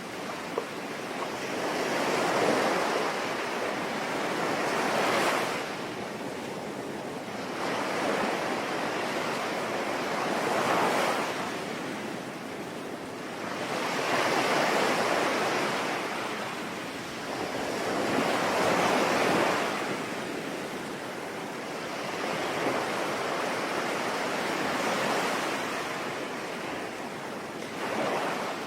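Sea waves breaking and washing on a shore, swelling and ebbing every few seconds under a steady hiss of rain.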